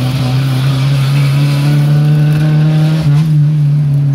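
Turbo Fiat Uno's engine running loud through a straight-pipe exhaust, held at high revs and rising slightly, with a brief dip in revs about three seconds in.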